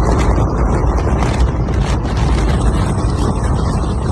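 Strong wind buffeting the microphone, a loud, steady low rumble with no pitch to it.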